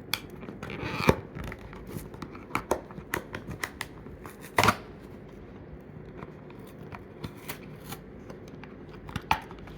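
Hands opening the cardboard-and-plastic retail packaging of a diecast toy train: scattered rustling, crinkling and tearing of card and plastic, with sharper, louder clicks about a second in and again midway.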